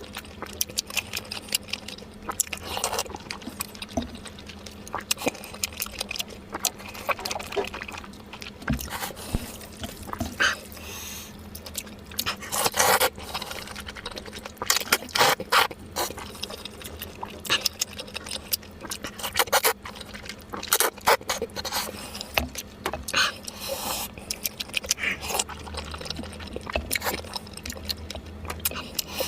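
Eating noises: irregular clicks, smacks and slurps of food being eaten, over a faint steady hum.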